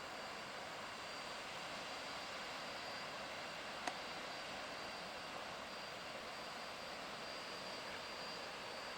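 Distant waterfall: a steady rush of falling water, with a single small click about four seconds in.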